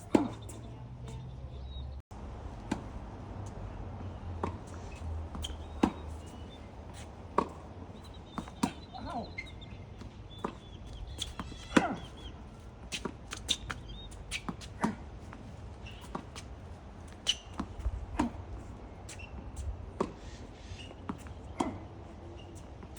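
Tennis balls struck by rackets and bouncing on the court during a rally, a string of sharp pops a second or two apart, over a low rumble of wind on the microphone.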